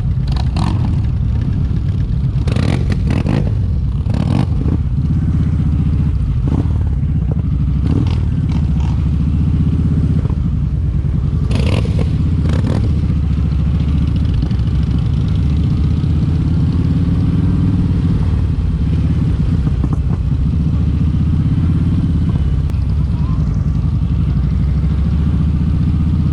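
Kawasaki Vulcan 1700 Vaquero's V-twin engine running steadily while riding, its pitch drifting slightly. A few brief clatters come in the first half.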